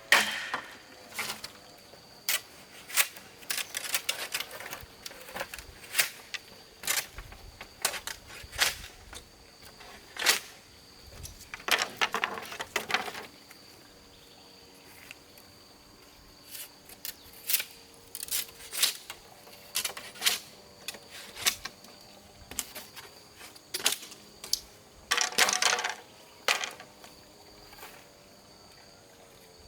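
Irregular sharp knocks and clicks of hand work, with two longer scraping bursts, over a steady high insect drone.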